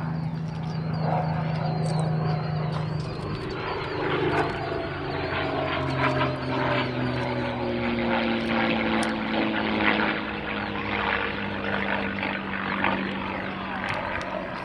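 P-51 Mustang's V12 piston engine and propeller passing overhead in a flyby: a steady drone whose pitch slides gradually lower as the fighter goes by.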